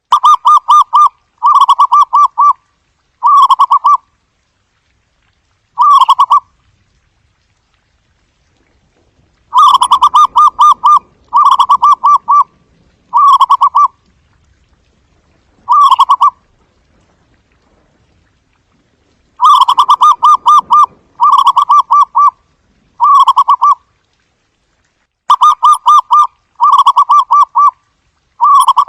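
Zebra dove's staccato cooing: short phrases of rapid, chattering notes, repeated in clusters with silent pauses of a few seconds between them.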